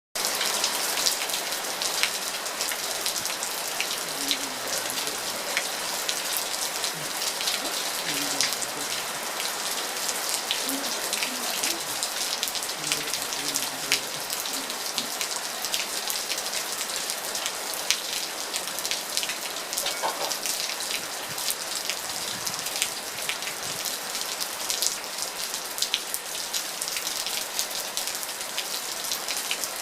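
Steady summer rain, a constant hiss dotted with many sharp drops of rainwater falling from the roof eaves and splattering below.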